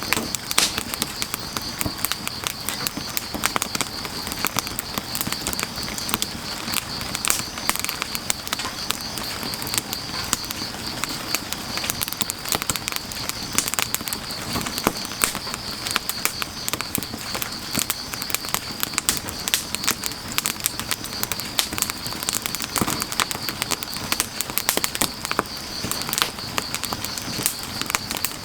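Firewood fire crackling, with frequent sharp pops and snaps. Under it runs a steady high trill of grass insects, over a soft hiss of rain.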